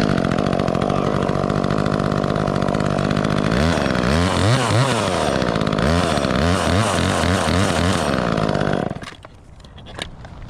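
Chainsaw running at high speed, then cutting through wood, its pitch dipping and recovering repeatedly as it bogs under load. It cuts off suddenly about nine seconds in.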